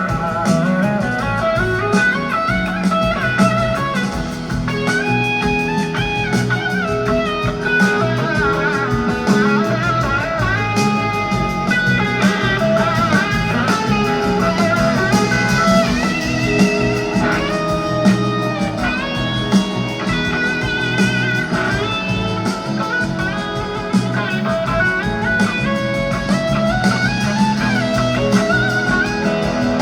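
Live blues-rock band playing an instrumental section: an electric guitar solo of wavering, gliding notes over bass, drums and keyboards.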